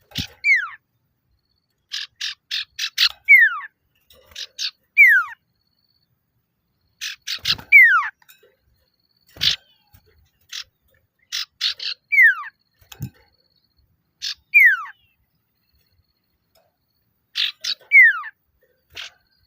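Male common iora (sirtu/cipoh) calling: repeated phrases of several quick, sharp chip notes, each phrase ending in a clear whistle that slides downward. It is the male's challenge call used to provoke other irioras into answering.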